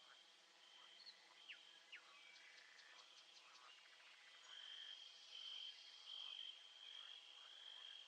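Faint nature ambience: a steady high-pitched insect trill that grows louder about halfway through, with a few short bird chirps and a quick run of ticks early on.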